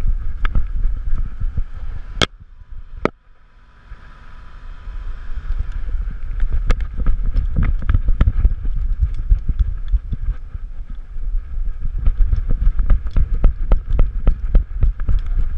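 Rubbing and knocking of a GoPro strapped to a dog's harness as the dog moves, with a low rumble of wind and body movement on the microphone and many quick clicks. Two sharp clicks about two and three seconds in are followed by a brief lull before the rumble and clicking pick up again.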